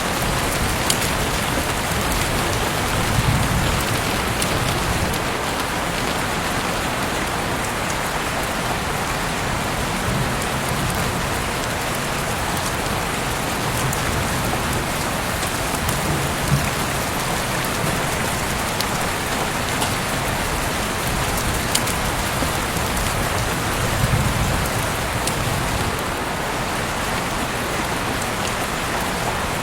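Heavy rain falling steadily, an even hiss with scattered sharp ticks of individual drops. A low rumble swells briefly twice.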